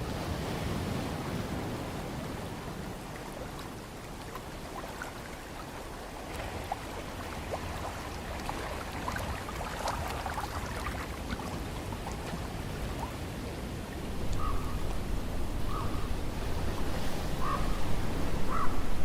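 Ocean surf washing in a steady, even hiss, with a louder low rumble over the last few seconds. A few short chirps come near the end.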